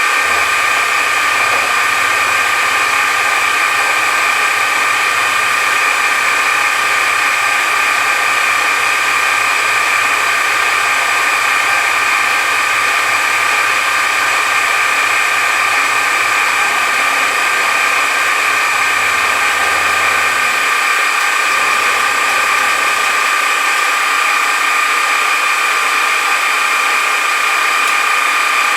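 Machine tool running steadily through a cutting pass on a gear: a constant motor noise with a steady high whine.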